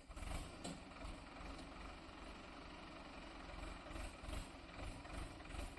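Hindustan-60 tractor's diesel engine idling faintly with a low, even pulsing, and one short click about half a second in.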